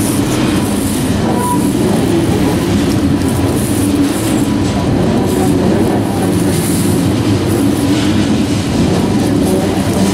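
Tank cars of a long freight oil train rolling past close by: a steady rumble of steel wheels on the rails, with clicks as the wheels cross the rail joints.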